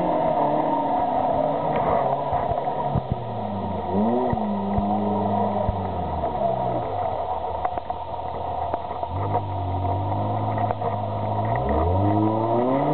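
Suzuki SJ off-roader's engine revving up and down as the 4x4 crawls through deep mud. The pitch climbs and holds about three times, the last rise near the end, with scattered short knocks and clicks.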